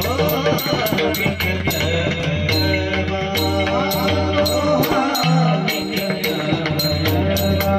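Marathi devotional bhajan music with pakhawaj drum accompaniment. Sharp metallic strokes keep an even beat of about three to four a second over held steady tones, and a melodic line wavers through in places.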